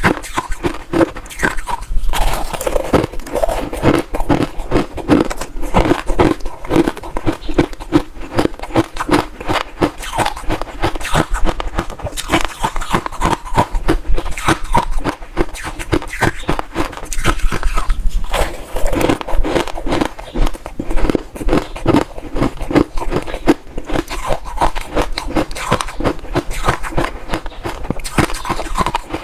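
Close-miked crunching of ice being bitten and chewed: a dense, continuous run of sharp cracks and crunches.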